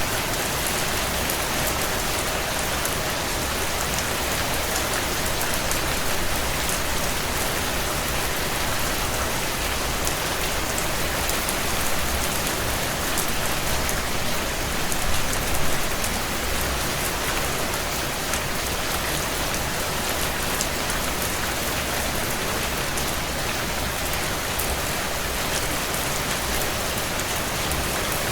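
Heavy rain falling steadily on window panes, a dense even hiss, with scattered faint crackles from a wood fire in a stone fireplace.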